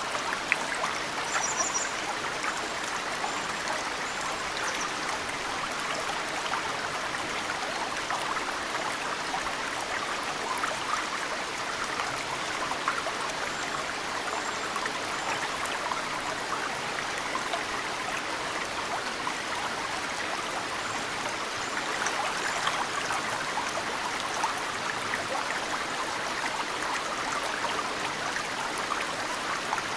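Mountain stream running steadily, with many small drips of snowmelt splashing into the water. A few faint, high bird chirps come about a second and a half in.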